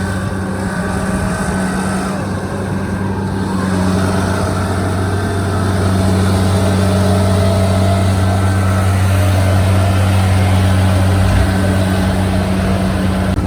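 Kubota DC-73 combine harvester running steadily with a deep, even engine hum, and a fainter whine that rises and falls in pitch about halfway through.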